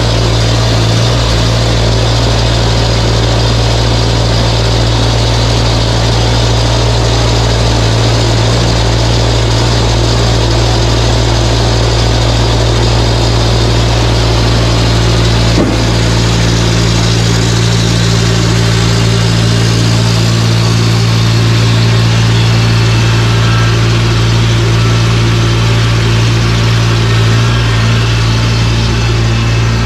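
John Deere tractor's diesel engine running steadily at a constant speed while snow blowing.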